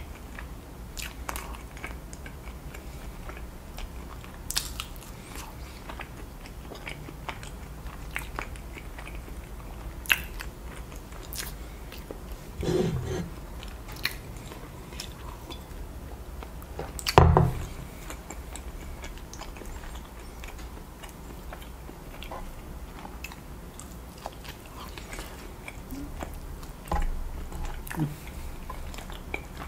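Close-miked chewing and biting into sauce-covered rotisserie chicken, with scattered sharp clicks and a louder thump about seventeen seconds in.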